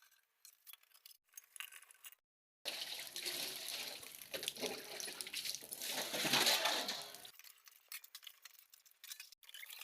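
Water running and splashing as dishes are washed by hand, starting about two and a half seconds in and lasting some five seconds, with a few faint clinks before and after.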